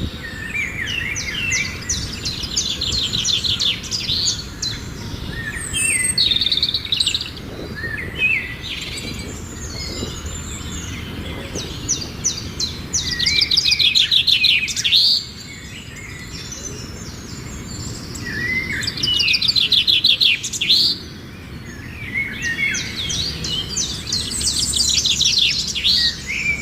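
Songbirds singing: repeated phrases of rapid trills and chirps, each a second or few long, recurring every few seconds.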